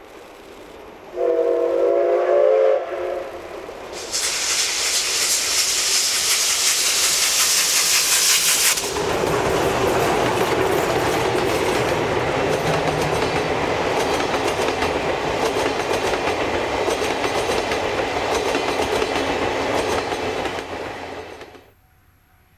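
A steam locomotive sounds a short chord-like whistle, then passes with a loud hiss and the steady rumble and clack of its wheels on the rails; the sound cuts off suddenly near the end.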